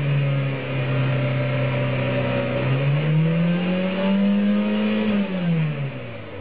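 Car engine held at raised revs, then revved higher about three seconds in and held there for a couple of seconds. Near the end the revs fall away and the engine drops back toward idle.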